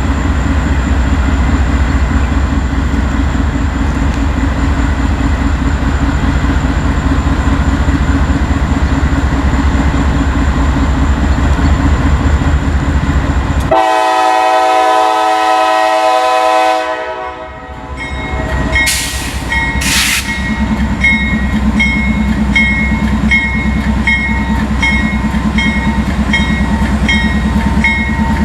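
A diesel locomotive runs with a heavy, steady rumble. About halfway through, the sound changes abruptly to a sustained train horn chord that fades out. Then a grade-crossing bell starts ringing in a steady repeating rhythm over the rumble of a train.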